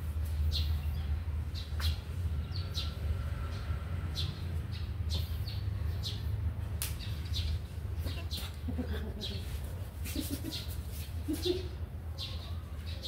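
Small birds chirping in short, high, repeated notes, over a steady low hum.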